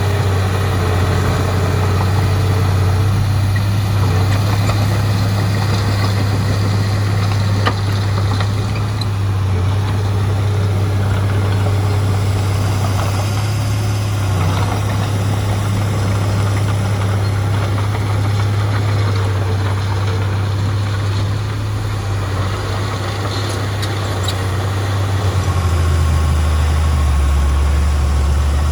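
Heavy diesel engine running steadily at a low, even speed; its note drops a little lower near the end.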